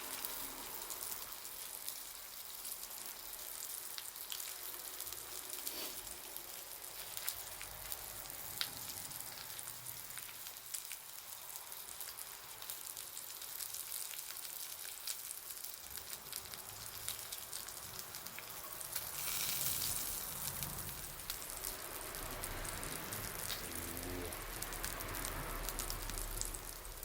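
Bonfire crackling with a steady hiss and many scattered sharp pops; a louder burst of hissing comes about twenty seconds in.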